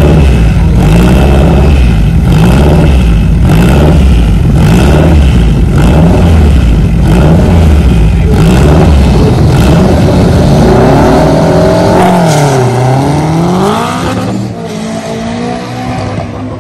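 Honda Civic drag car engine held at high revs, its pitch rising and falling in a steady rhythm. About twelve seconds in the note dips sharply and climbs again as the car launches, then the sound drops away suddenly.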